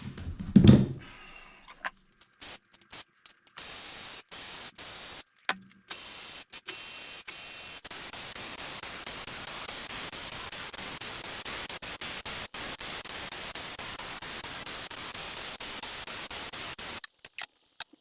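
A steady hiss, strongest in the treble, with a few clicks in the first few seconds; the hiss starts about three and a half seconds in, cuts out briefly many times, and stops about a second before the end.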